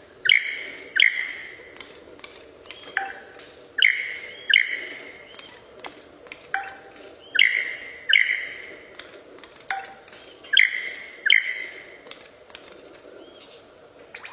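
A bird calling loudly in pairs of short, sharp, ringing calls, the pairs coming about every three seconds, with a softer, lower call before several of them.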